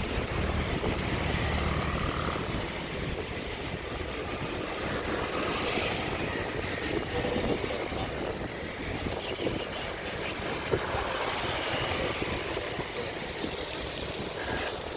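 Airliner jet engines running steadily under a dense rushing hiss of heavy rain.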